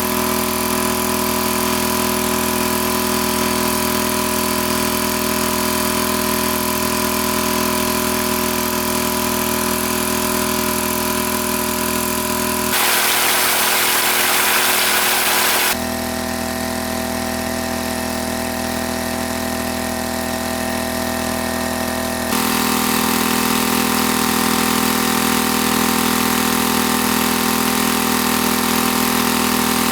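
Small engine running steadily at one speed, a constant hum whose tone shifts abruptly a few times. For about three seconds partway through, the hum gives way to a louder hiss.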